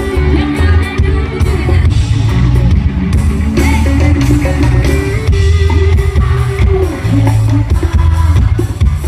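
Live band music played loud through a PA sound system: drum kit, heavy pulsing bass and guitar.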